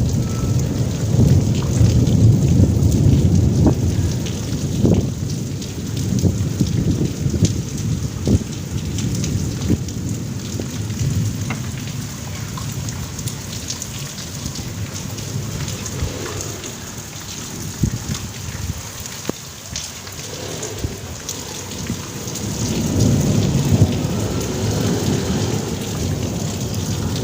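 Heavy rain falling steadily in a thunderstorm, with many sharp drop impacts and rolling thunder rumbling, loudest in the first few seconds and swelling again near the end.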